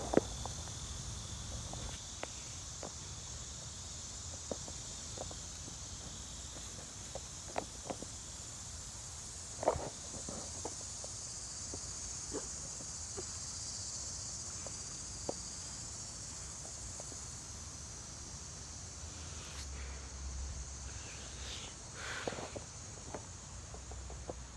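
Steady high-pitched insect chorus, with scattered light clicks and crunches; one sharper knock about ten seconds in and a brief rustle near the end.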